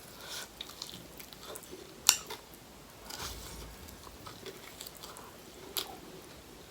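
Close-up chewing and biting of chicken wings: soft wet mouth sounds with scattered small clicks, and a sharp crunch about two seconds in and another near the end.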